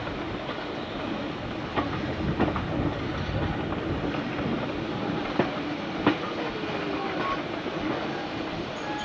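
Passenger carriage of a heritage train running along the track, heard from the carriage window: a steady running rumble and hum, with several sharp wheel clicks over the rails.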